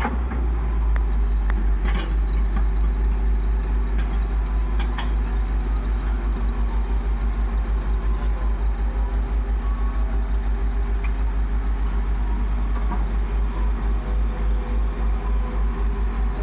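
Diesel engine idling, a steady low chugging pulse at about four beats a second, with a few light knocks in the first five seconds.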